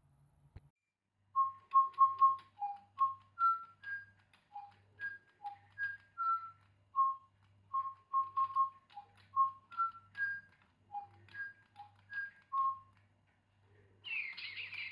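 A simple tune whistled in short, clear, high notes, about two or three a second, stepping between a few pitches. There is a brief rushing noise near the end.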